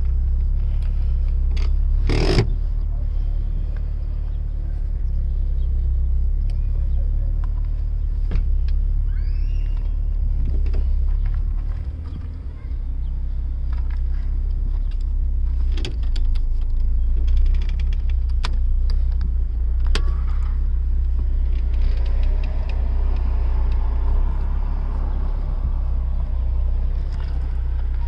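Minivan engine idling as a steady low rumble, with scattered clicks and knocks of seats and trim being handled. One loud knock comes about two seconds in.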